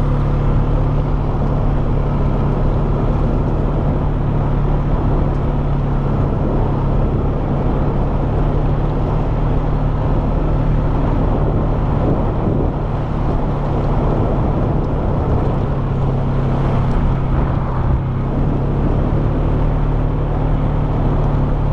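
Polaris Sportsman 570 SP ATV's single-cylinder engine running steadily while cruising at about 20 mph, its low tone holding even.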